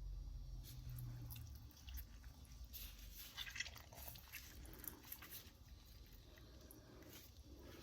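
Faint wet squishing, small clicks and drips as a whole orange is squeezed by hand over a raw whole chicken, the juice running onto the meat.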